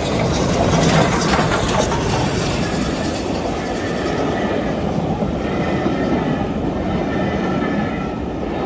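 Steam train running past close by, a loud, steady rushing noise.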